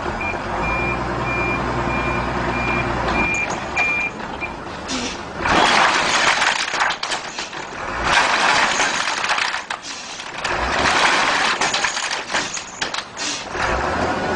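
A truck reversing with its back-up alarm beeping about seven times over its engine running. Then come four loud, rough bursts of clattering and crashing, typical of a load of wood sliding and tumbling off the truck.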